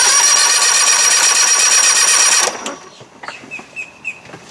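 The electric starter cranks over the 1992 Johnson 60 hp two-stroke outboard for a compression test: a steady whirring that runs for about two and a half seconds and then cuts off abruptly.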